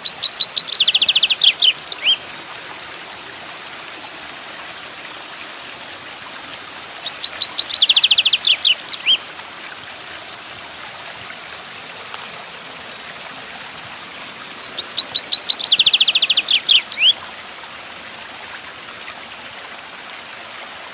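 A bird singing the same quick phrase of rapid high notes three times, about seven seconds apart, over the steady rush of a rocky mountain stream and small waterfall.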